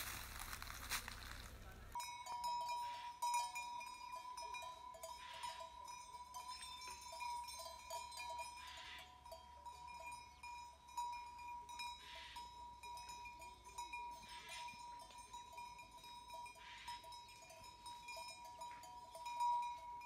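A crunching noise for about two seconds, then livestock bells ringing steadily, with bleats every few seconds from a flock.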